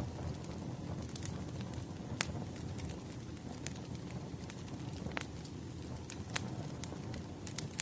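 Wood fire crackling, with a steady low rumble and scattered sharp pops at irregular intervals.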